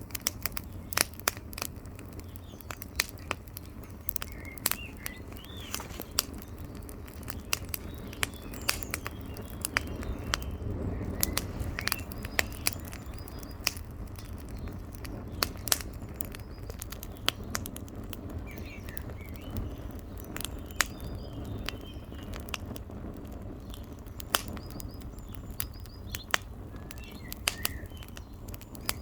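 Campfire crackling, with irregular sharp pops and snaps of burning wood over a steady low rush. Birds chirp faintly in the background now and then.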